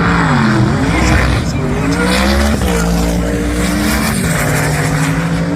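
Performance car engine accelerating hard: its pitch climbs, drops sharply at a gear change about two and a half seconds in, then climbs again and levels off.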